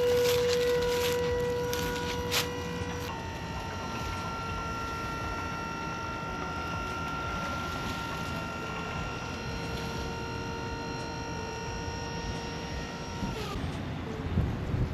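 A machine running with a steady whine made of several held tones. The pitch shifts upward about three seconds in, and the whine winds down near the end.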